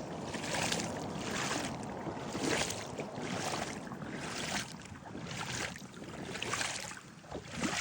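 Footsteps along a muddy, brushy shore trail: a rustling swish about once a second, over a steady low wind rumble.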